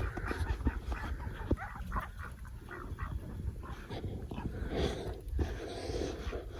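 Chickens and ducks calling, many short calls overlapping.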